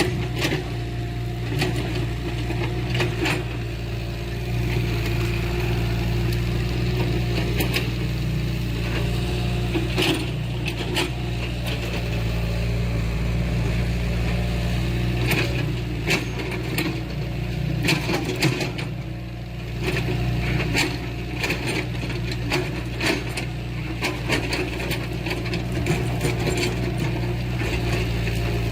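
Diesel engine of heavy earthmoving machinery running at a steady drone, with frequent sharp metallic clanks and knocks from the working machine.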